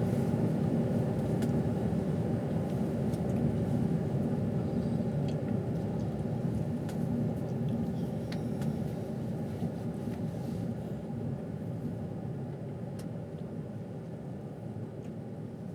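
Steady rumble of a passenger train running along the line, heard from inside the carriage, with a faint steady hum and a few light ticks; it slowly grows quieter toward the end.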